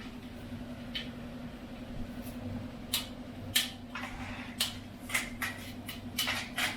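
Light clicks and knocks of steel shelf parts being handled and fitted together, about eight separate taps at uneven intervals, over a steady low hum.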